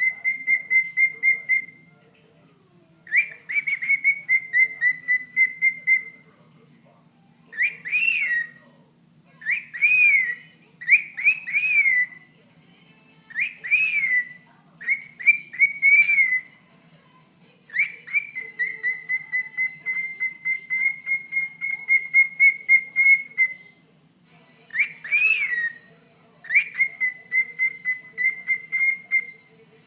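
Pet cockatiel chattering: runs of quick, evenly repeated chirps at one pitch, broken by short whistles that rise and fall, with brief pauses between runs.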